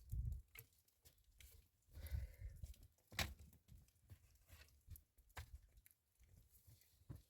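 Faint, scattered clicks and soft low thuds at irregular intervals, with near silence between them.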